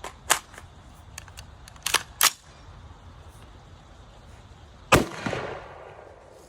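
A single gunshot about five seconds in, with a short echoing tail. It follows several sharp clicks and knocks in the first couple of seconds.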